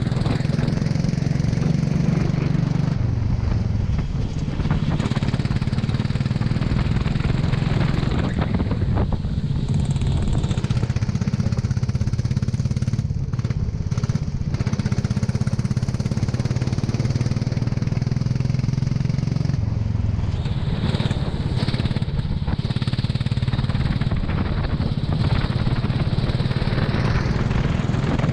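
Racing kart engine running under load, its pitch dipping and climbing again a few times as it slows and accelerates, over a steady hiss.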